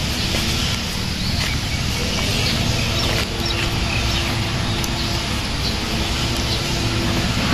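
Birds chirping in scattered short calls over a steady low rumble.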